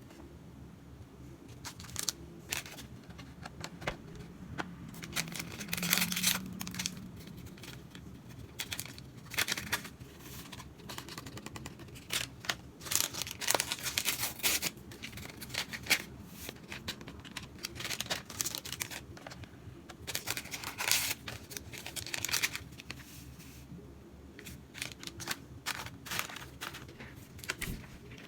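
Household handling noises: irregular clicks and knocks with a few short bursts of rustling or crinkling, like packaging being handled.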